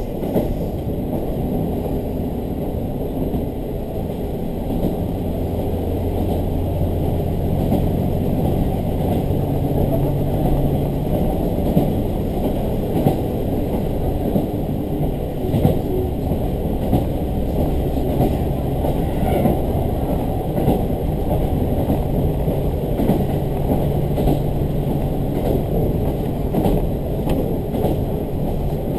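Interior of a diesel railcar under way: steady rumble of wheels on the rail and a low engine drone that strengthens a few seconds in, with scattered light knocks from the running gear.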